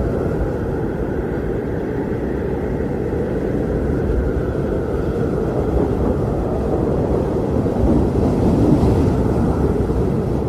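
Strong blizzard wind blowing in a steady, deep rush, swelling slightly near the end.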